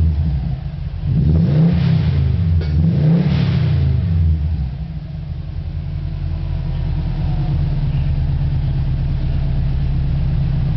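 2008 Subaru WRX's turbocharged flat-four engine, heard through a custom exhaust, revved up and dropped back twice in quick succession. It then settles to a steady idle about four seconds in.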